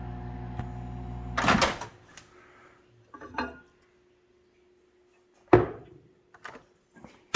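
Microwave oven humming, then cutting off about a second and a half in with a loud clack as its door is opened. A few knocks and clatters follow as the dish is handled, with one sharp knock about two-thirds of the way through.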